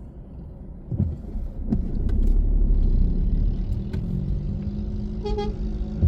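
Car driving, with steady road and engine rumble that gets louder about a second in and a few short knocks. A short, high-pitched beep sounds near the end.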